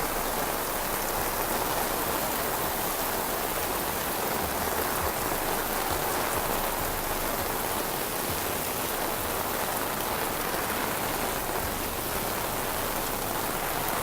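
Heavy rain falling steadily, an even, unbroken hiss of rain on hard surfaces.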